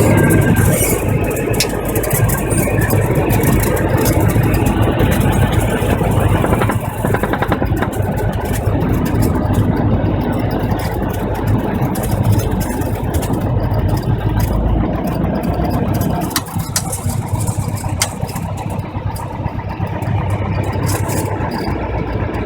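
Cessna 172's piston engine and propeller running at low power, a steady rumble that eases off a little about sixteen seconds in.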